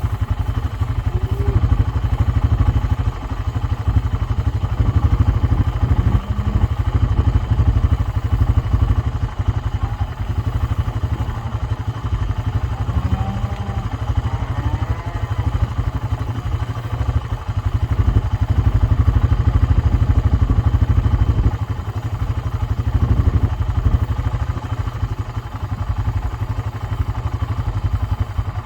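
Four-wheeler (ATV) engine running steadily under way, a continuous low rumble.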